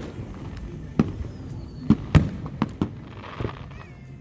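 Aerial fireworks going off in an irregular string of sharp bangs, about half a dozen in four seconds, the loudest about two seconds in.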